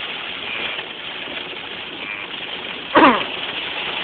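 Steady rush of heavy rain on a moving vehicle, heard from inside the cabin while driving through a thunderstorm. About three seconds in comes a brief, loud sound that slides down in pitch.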